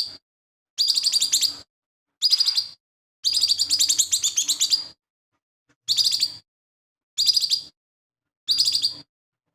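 Lesser green leafbird (cucak ijo mini) singing in short, loud phrases of rapid repeated high notes, about seven phrases with brief silent gaps between them, the longest about a second and a half.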